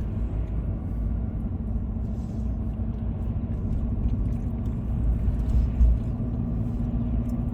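Car road noise heard from inside the cabin while driving on an icy road: a steady low rumble of tyres and engine, with a steady hum under it.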